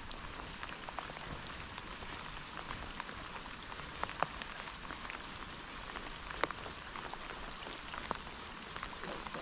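Steady rain falling, with a few sharper single drop ticks scattered through it, the loudest a little after halfway.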